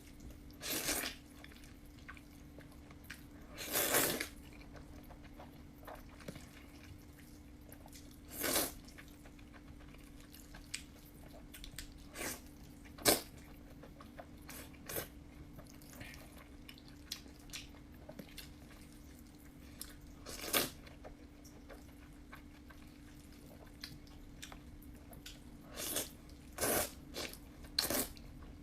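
Close-miked eating of fried noodles: wet slurps and chewing, mouth noises coming in short sharp bursts every few seconds at irregular spacing, with several close together near the end. A steady faint low hum runs underneath.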